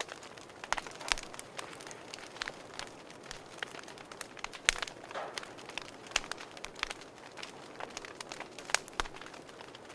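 Wood fire burning in a fireplace, crackling with irregular sharp pops over a soft steady hiss of flame; the loudest pops come about a second in, near the middle, and near the end.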